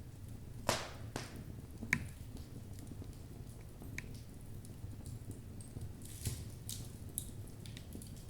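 Logs burning in a fireplace: a steady low rumble of flames with scattered crackles and pops of the burning wood, the two sharpest pops in the first two seconds and a small cluster near the end.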